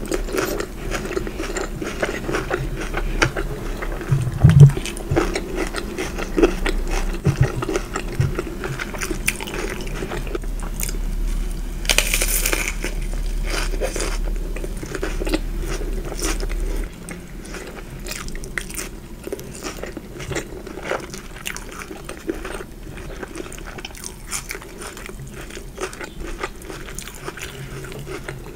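Close-miked eating: biting into and chewing crunchy fried food, with irregular crunches and wet mouth clicks, and a few dull thumps about four seconds in.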